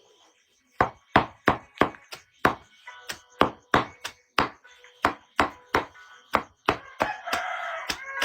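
Chopping: fast, evenly spaced blade strikes, about three a second, beginning about a second in.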